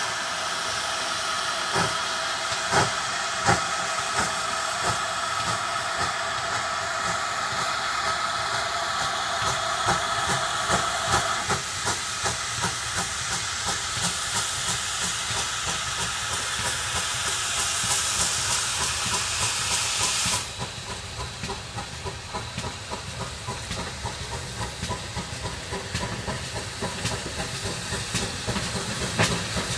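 Steam locomotive hissing loudly, with scattered knocks. The hiss drops away suddenly after about twenty seconds, leaving a quieter hiss with clicking.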